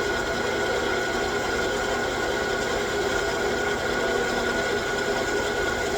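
A 9x20 gear-head engine lathe running steadily while taking a light 2-thou skin cut with cutting oil, a constant hum with a high steady whine over it.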